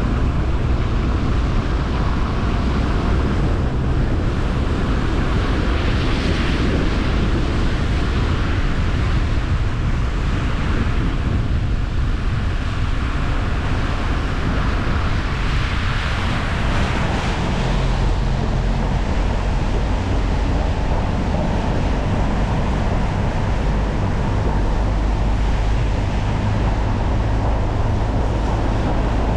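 Car driving along a road: steady low engine and road rumble with a hiss of tyres and wind that swells twice, about six seconds in and again about sixteen seconds in.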